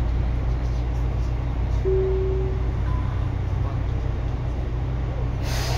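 Tobu 9000 series electric commuter train running, a steady low rumble, with a short held tone about two seconds in and a brief rush of noise just before the end.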